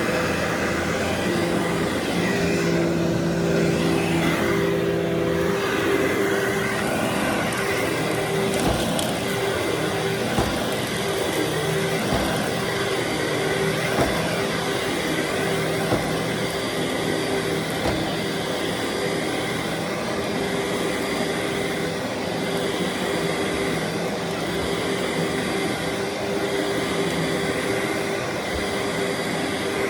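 Vacuum cleaner running steadily over carpet, its motor hum shifting slightly in pitch, with faint low thumps roughly every two seconds.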